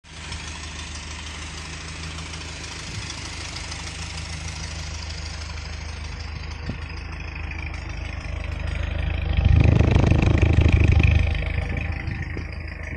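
1986 Toyota pickup 4x4 engine idling through a Flowmaster exhaust, with one swell in level lasting about two seconds, about three quarters of the way in, most likely a blip of the throttle, before it settles back to idle.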